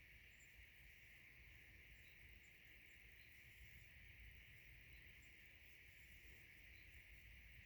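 Near silence: a faint, steady hiss with a little low rumble.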